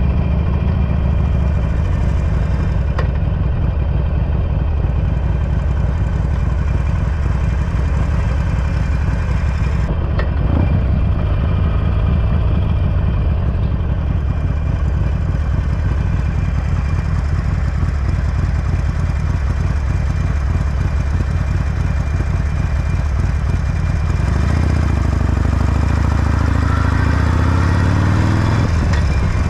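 Harley-Davidson Forty-Eight's V-twin engine idling through a Belles Performance exhaust, a steady low drone whose note changes a little near the end.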